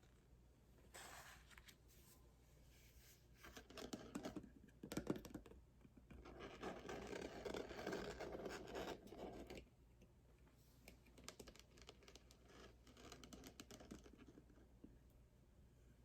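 Faint scratching and rustling of cardboard packaging being handled: short spells about one second in and around four to five seconds in, with a sharp click, then a longer spell in the middle, followed by lighter clicks and taps.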